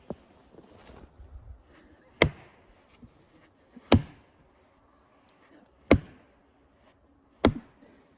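Heavy axe blows into the trunk of a tree being felled: four loud, sharp chops about one and a half to two seconds apart, with a faint knock at the start.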